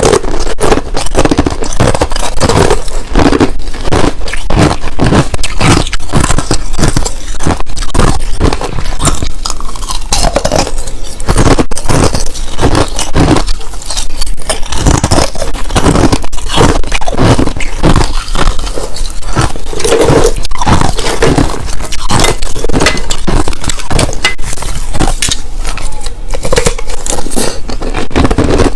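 A person chewing crushed ice, clear cubes and powdery ice: loud, rapid crunching, several bites a second without a pause.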